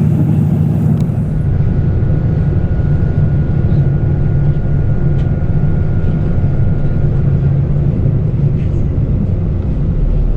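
KiHa 85 diesel railcar running at speed: a steady low drone from its Cummins diesel engines with rail and running noise, and a thin steady whine for several seconds in the middle.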